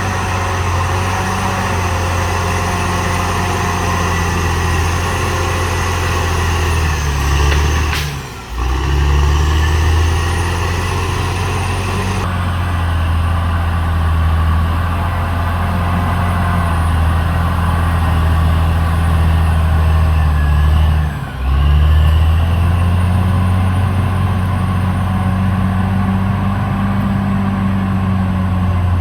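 Caterpillar D6R XL bulldozer's diesel engine running steadily under work. The sound drops out briefly twice, once about a third of the way in and again about three-quarters through.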